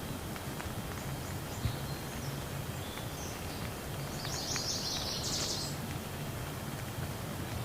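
Steady rain falling, with scattered individual drops striking close by. In the middle a small bird twitters in a quick run of high notes.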